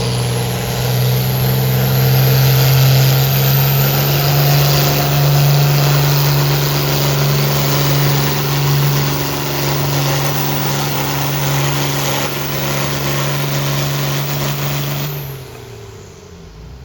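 Farm pulling tractor's engine running hard at a steady pitch under full load as it drags the weight sled down the track, then throttled back near the end, the note falling away.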